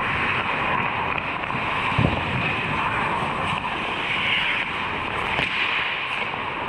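Ice hockey game in a rink: a steady wash of noise from skates and play, with one sharp knock about two seconds in.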